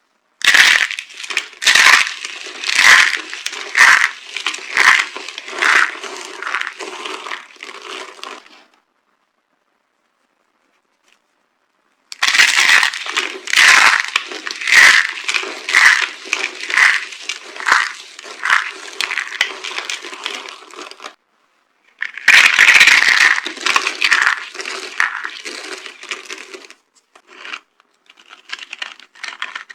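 Dry bar soap being crushed, crunching and crackling in three bouts with short silences between. Each bout opens with loud crunches about once a second that fade into finer crackling.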